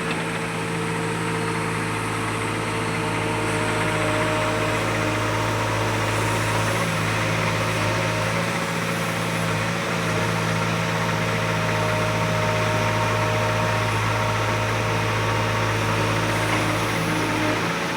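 Diesel engine of heavy farm or construction machinery idling steadily at an even speed.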